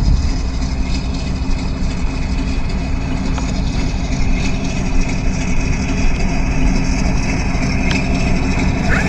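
Benedini sound module on an electric RC Gee Bee Z playing a steady engine-idle sound over a low rumble.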